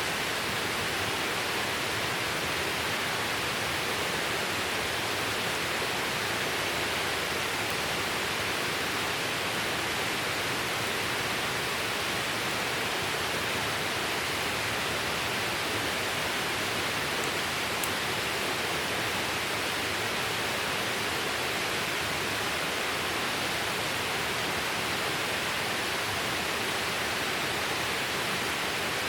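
A steady, even rushing noise, like running water or a hissing flame, with no rhythm or breaks.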